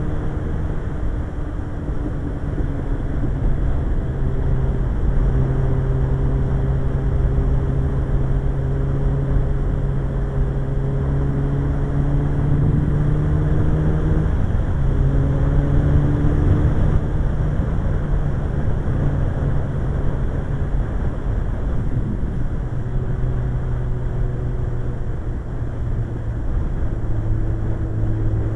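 Suzuki GSX-R1100 motorcycle's inline-four engine running on the road, with heavy wind rush. The engine note creeps slowly higher, breaks off briefly about halfway through, and settles lower for the last few seconds.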